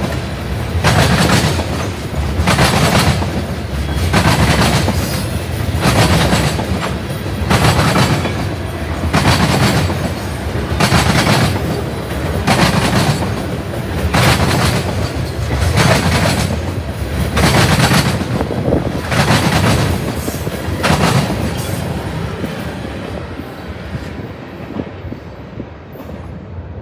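Loaded tank cars of a freight train rolling past, their wheels clacking over the track in a steady rhythm, a clack group about every second and a half to two seconds as each car's trucks go by. The clacks stop about three quarters of the way through as the last car passes, and the rumble of the train dies away.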